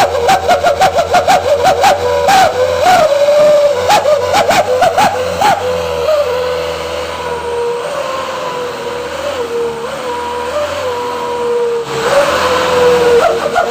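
Box truck's 'serigala' (wolf) aftermarket exhaust howling with a whistling tone. The howl wavers quickly with repeated throttle blips for the first few seconds, holds steadier and a little quieter in the middle, then grows louder and wavers again near the end.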